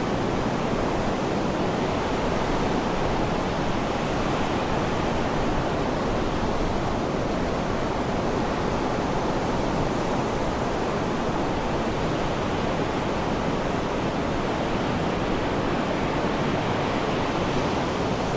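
Sea surf rushing as a steady, even wash, with no single wave breaks standing out.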